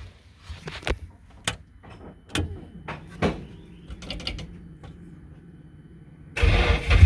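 A few scattered clicks and taps, then near the end the starter cranks the rebuilt Nissan SR20DET turbo four-cylinder and it catches and fires up.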